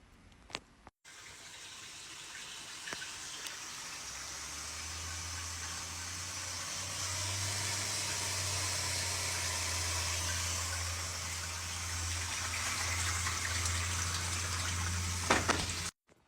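Water rushing into a washing machine through its newly replaced water inlet valve as it fills. The rush grows steadily louder, and a low steady hum joins it about four seconds in.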